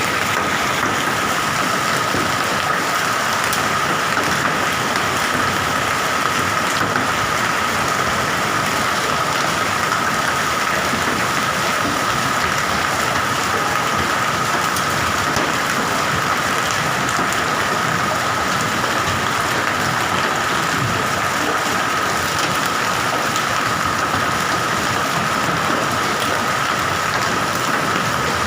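Hailstones and heavy rain pelting down in a dense, steady patter. A thin, steady tone runs beneath the patter throughout.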